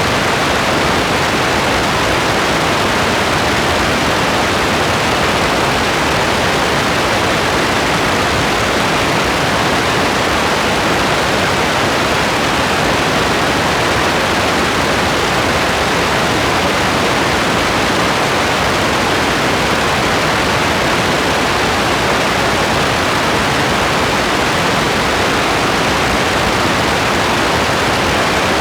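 Steady rain as an even hiss, with no single drops, thunder or other sounds standing out.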